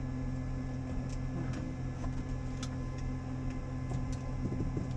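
Steady electrical hum with a few faint clicks, heard over a helicopter's headset intercom; the pitch holds steady.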